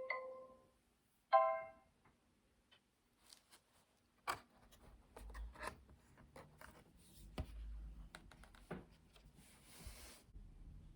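The last notes of a tune from a children's electronic button sound book, a short electronic tone about a second in, then faint handling of the book: scattered light clicks, knocks and rubbing.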